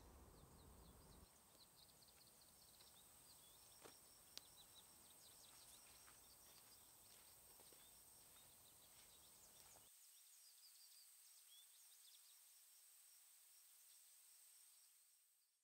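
Near silence: faint woodland ambience with small birds chirping now and then, and a couple of soft clicks about four seconds in.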